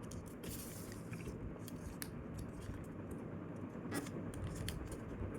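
A sheet of paper being folded and creased by hand: faint crinkling and rustling with soft ticks, a few sharper ones about 2 and 4 seconds in.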